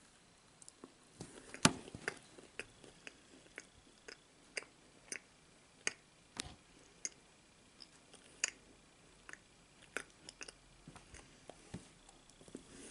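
A person chewing a soft chocolate-fudge Pop-Tart Bite close to the microphone: quiet chewing with scattered sharp mouth clicks and smacks, one or two a second, the loudest about a second and a half in.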